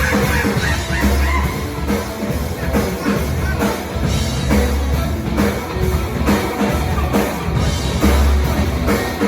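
Live rock band playing loud, with drum kit hits keeping a steady beat over a heavy, pulsing bass.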